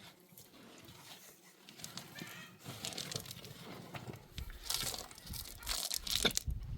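Rustling and crinkling, faint at first and growing louder from about halfway through, with scattered clicks.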